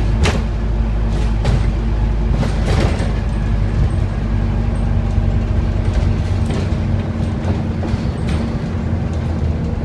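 Scania N230UD Omnicity double-decker bus's Euro V five-cylinder diesel running steadily under way, a deep even drone. There are a few sharp knocks or rattles in the first three seconds, and the deepest rumble eases about six seconds in.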